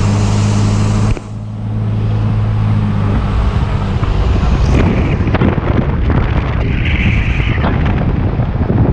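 Cummins-swapped diesel Ford F-250 running on the road, a steady low drone until a sudden break about a second in. Then a rougher, louder engine sound builds up, with wind noise, as in an acceleration pull.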